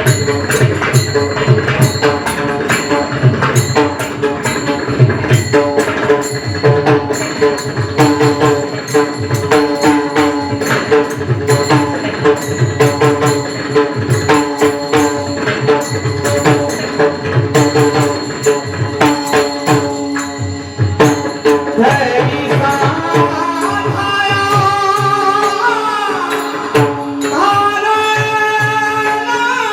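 Pakhawaj drumming in a fast, steady rhythm over held accompanying tones and small jingling percussion; about three-quarters of the way through, a man's voice starts singing a devotional melody over it.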